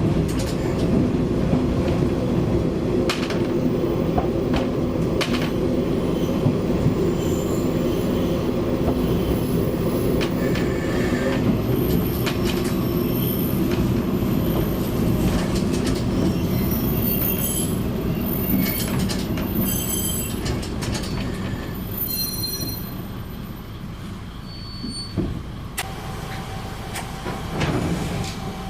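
KiHa 20 diesel railcar running on the line, heard from on board: steady engine and rail noise with occasional knocks at rail joints. High-pitched wheel squeal comes and goes from about twelve to twenty-two seconds in, and the running noise then drops as the railcar eases off.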